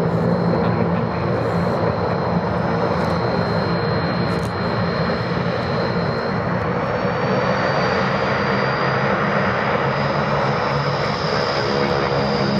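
Antonov transport aircraft's engines running steadily with a high whine, a second whine rising in pitch about halfway through.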